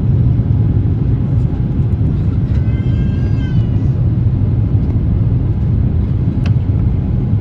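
Steady low rumble of jet airliner cabin noise from the engines and airflow during the climb after takeoff. About three seconds in, a brief high wavering sound lasting about a second, and a single click near the end.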